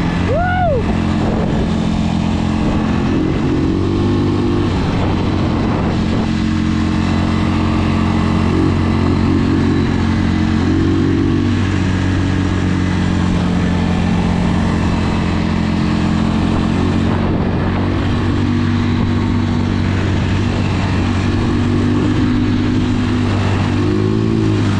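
A 250 cc two-wheel-drive ATV engine running steadily while riding, with a few brief small rises in revs.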